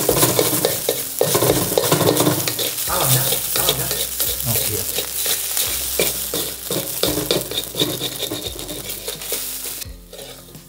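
Scrambled eggs sizzling in oil in a steel wok, stirred and scraped with a wooden spatula in quick, repeated strokes over a flame the cook finds too hot, the eggs starting to scorch. The sizzle and scraping drop away suddenly near the end.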